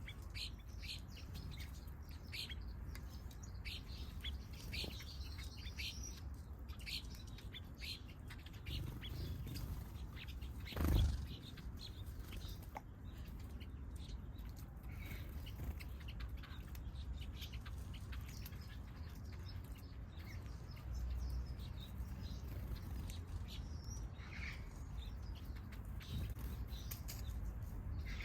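Small aviary birds chirping, with many short high calls that are densest in the first several seconds and sparser afterwards. A brief, louder burst of sound comes about eleven seconds in, over a steady low background rumble.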